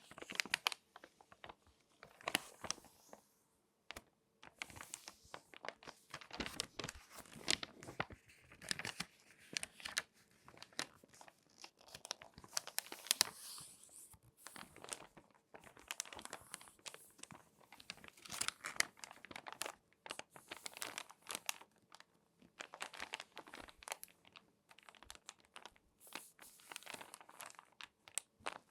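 Glossy magazine pages being folded and crinkled by hand: a close, continuous run of irregular paper crackles and crunches with a short pause about four seconds in.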